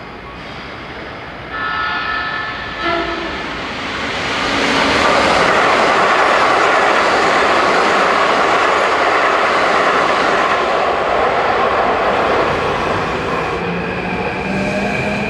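Keikyu 2100 series electric train sounding its horn briefly about two seconds in. It then passes close by with a loud, steady rumble of wheels on rail, and a rising motor tone sets in near the end.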